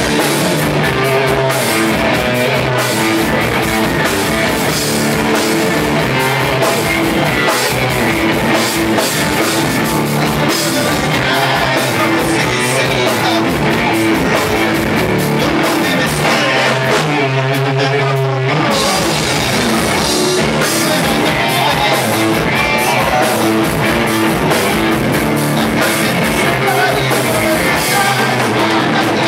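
Live rock band playing with electric guitar and drum kit, mostly without vocals. About 17 seconds in the drums drop away briefly under a held, wavering note, then the full band comes back in.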